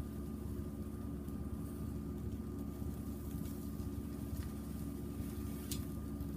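Wood fire burning in a fire box, a steady low rumble with a couple of sharp crackles near the end.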